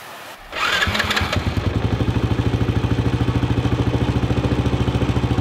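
A motorbike engine starting about half a second in, then idling steadily with a fast, even pulse.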